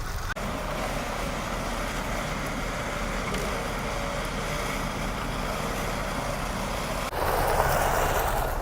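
Road traffic noise: a steady rumble of vehicles running, cut off abruptly twice, about a third of a second in and about a second and a half before the end, where it comes back a little louder.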